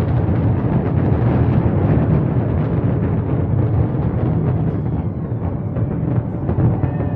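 Dense fireworks barrage: many overlapping explosions merging into a continuous low rumble with crackling.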